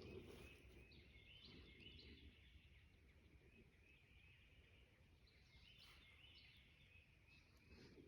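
Near silence with faint songbirds chirping and trilling again and again over a low background hiss.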